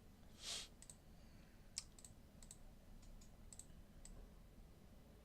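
Faint, scattered computer-mouse clicks, several in quick pairs like double-clicks, with a short soft hiss about half a second in.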